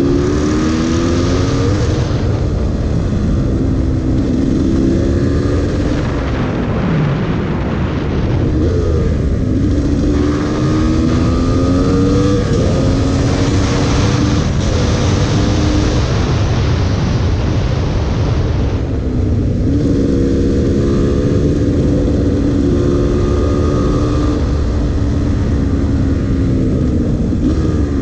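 GasGas EC300 two-stroke single-cylinder engine running under way, its pitch climbing and dropping again and again as the rider accelerates and backs off through the bends. Heavy wind noise on the microphone runs underneath.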